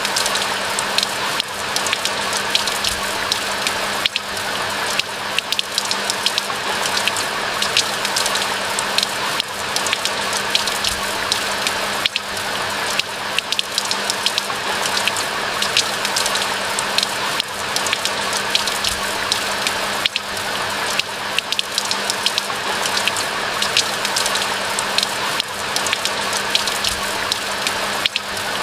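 Steady rain falling in a pine forest: an even hiss dotted with many small drop ticks, with a faint steady low hum underneath.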